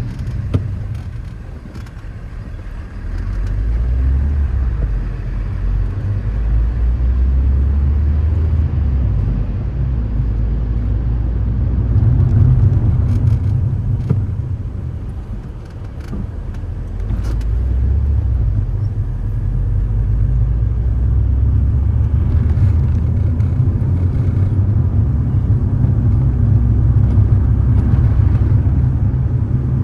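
Car being driven: a low engine and road rumble that eases off twice and builds back up.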